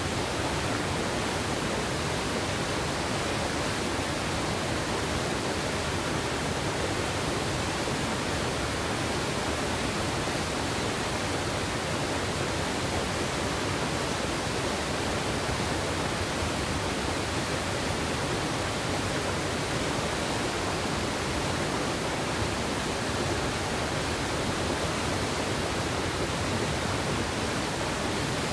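Steady rush of a mountain river's water over rocks, a dense unbroken hiss without any distinct splashes or changes.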